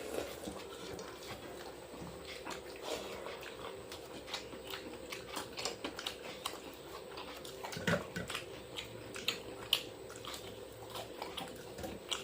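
Close-up eating sounds: chewing, with scattered small wet clicks and smacks, as panta bhat (water-soaked rice) and fried sides are eaten. A faint steady hum runs underneath.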